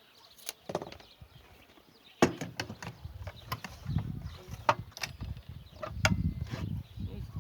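Hand work on the coop base: a string of sharp knocks and clicks with dull thuds between them, starting about two seconds in after a quiet start.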